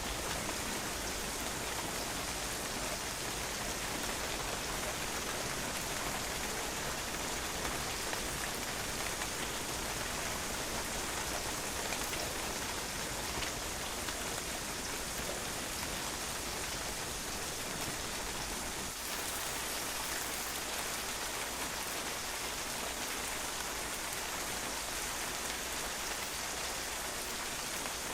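Steady rain falling on a patio, drops pattering on the hard surface in an even, unbroken hiss.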